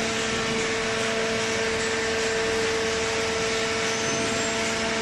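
Hydraulic baling press running: a steady machine hum with a constant whine over an even hiss, from the electric motor and hydraulic pump.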